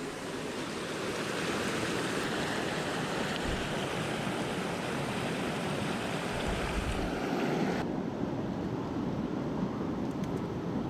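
Mountain stream water rushing steadily. About eight seconds in, the sound abruptly loses its hiss and turns duller.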